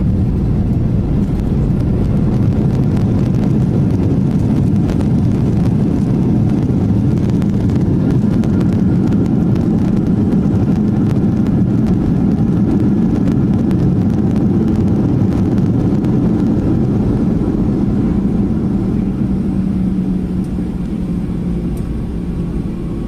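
Loud, steady engine and airflow noise of a Boeing jet airliner heard from inside the cabin during landing, with faint rattles. It eases slightly near the end.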